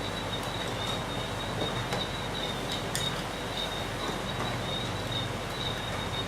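Insects chirring in one steady, unbroken high-pitched buzz over constant background noise, with a few faint clicks.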